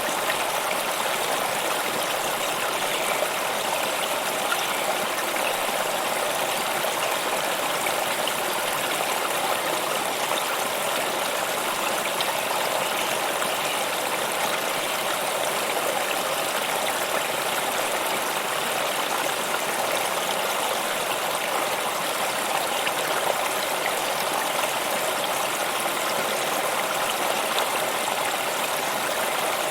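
Stream water flowing and rushing steadily, an even, unbroken wash of sound.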